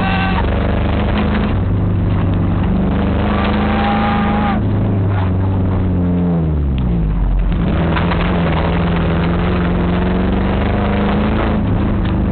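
Motor vehicle engine running loud and steady; about halfway through its pitch slides down, then picks up again quickly.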